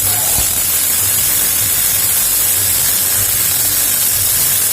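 MIG welder arc burning steadily under CO2 shielding gas, giving a continuous loud hiss.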